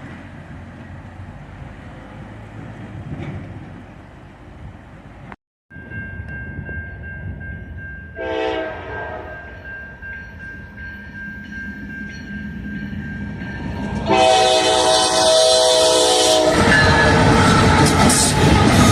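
A train approaching and passing. The locomotive's horn sounds briefly about eight seconds in, then blows loud and long for about two seconds near the end. It gives way to the loud rumble of the train going by close.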